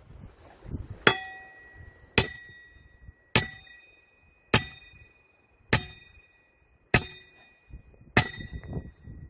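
A heavy hammer strikes a steel splitting wedge driven into a log: seven evenly paced, ringing metallic clangs a little over a second apart.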